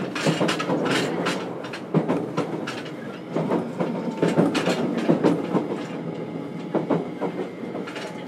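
Running noise heard inside a JR Kyushu 303 series electric motor car: a steady rumble of wheels on rail, broken by irregular sharp clacks as the wheels pass over rail joints.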